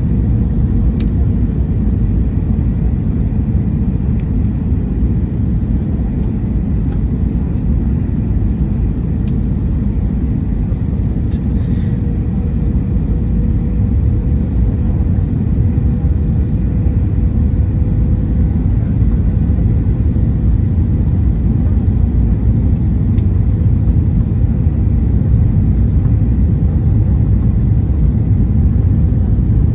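Airbus A321-200 cabin noise from a window seat: the steady low rumble of the engines and airflow, with a faint steady hum and a few light clicks.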